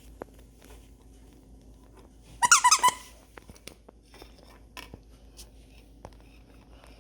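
Squeaky dog toy squeezed, giving a quick run of several high squeaks over about half a second, about two and a half seconds in; faint small clicks and taps follow.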